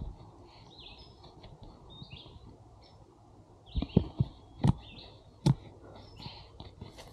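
Small birds chirping in short, repeated calls. Several sharp thumps come in a cluster about four to five and a half seconds in.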